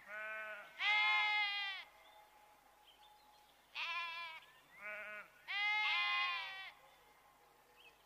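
Sheep bleating: five calls in two runs, each run a short bleat followed by a longer, louder one lasting about a second, with another short bleat opening the second run about four seconds in.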